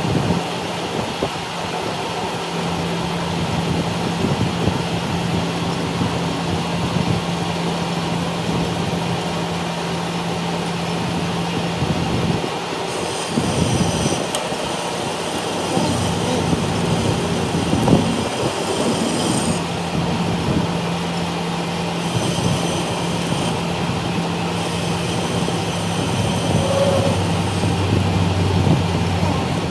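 Metalworking machinery running with a steady hum, joined twice by a long, high metallic squeal and a few knocks.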